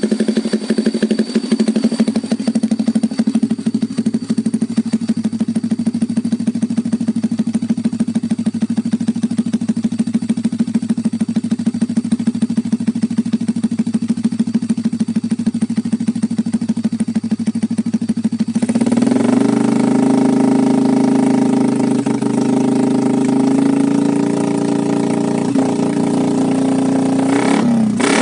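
Yamaha Jupiter MX single-cylinder motorcycle engine running through a loud Pro Liner aftermarket exhaust. It idles with an even pulsing beat, then about two-thirds of the way in it is held at a higher, steadier speed.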